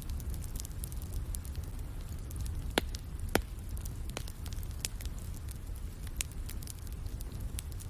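Wood fire crackling in a fireplace: scattered sharp pops and snaps, two louder ones about three seconds in, over a steady low rumble.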